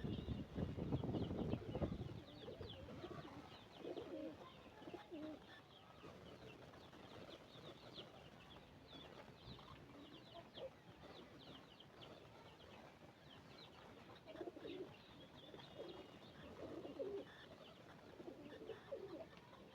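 Pigeons cooing in soft, low phrases that come every few seconds, over a steady scatter of faint high chirps from small birds. A louder rooster crow fades out in the first two seconds.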